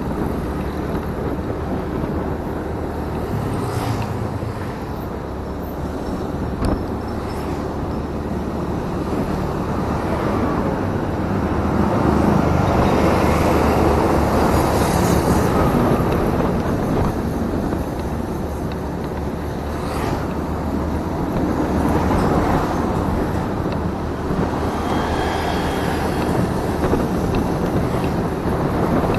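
Motorcycle engine running while riding, its note rising and falling as the bike speeds up and slows, under steady wind and road noise on the camera's microphone.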